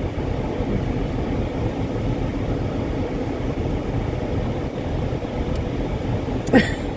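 Steady low rumble of a car idling while parked, heard from inside the cabin. A short vocal sound comes near the end.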